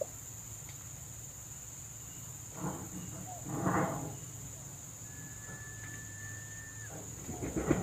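Steady high drone of insects, with a hen's short clucking calls about three seconds in and again near the end, and a thin steady whistle-like tone for a second or two between them.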